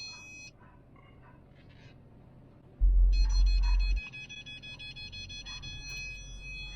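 Car parking-sensor warning: one short electronic beep, then about three seconds in a continuous steady tone that keeps sounding, the signal that the car is very close to an obstacle. A heavy low rumble comes in as the continuous tone begins and lasts about a second.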